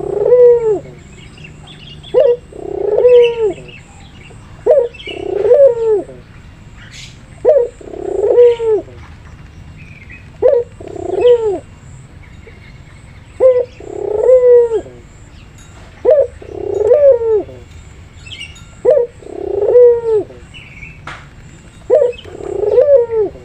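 A puter pelung (Barbary dove) cooing over and over, about one coo every two and a half seconds: each a short note followed by a longer coo that falls away. Faint higher chirps from other small birds sound between the coos.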